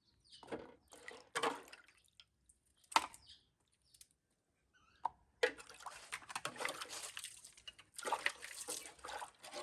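Water being handled: short splashes early on, a sharp knock about three seconds in and another at five, then a longer stretch of splashing and sloshing.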